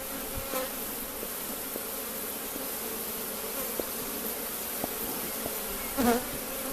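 Honeybee colony buzzing in a steady drone in an opened, freshly smoked hive, with a louder wavering buzz about six seconds in.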